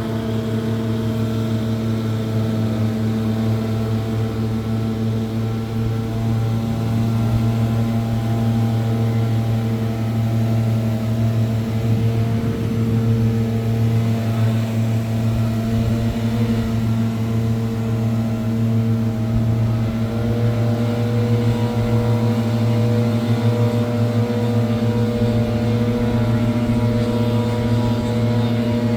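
Gas-powered leaf blower running steadily at high throttle, a constant engine note with a whooshing air rush.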